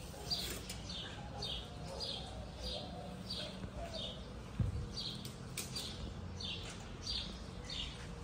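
A small bird chirping over and over, short falling chirps about twice a second, with one soft low thump about halfway through.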